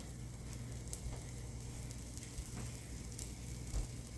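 Food sizzling in a frying pan, a steady fine crackle, over a low steady hum. A few faint clicks sound through it.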